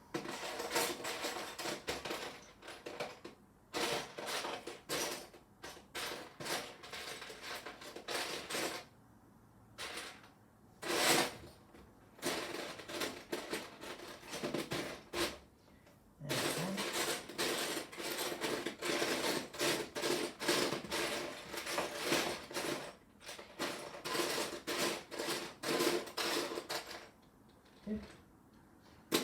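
Loose Lego pieces clattering and rattling as hands rummage through them, in stretches broken by a few short pauses.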